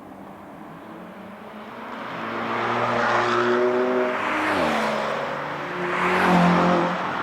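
Porsche 992 GT3 RS's naturally aspirated flat-six through a Brillsteel Edizioni Corsa aftermarket exhaust, passing at speed. The exhaust note builds, drops sharply in pitch about halfway through as the car goes by, then swells again near the end before fading.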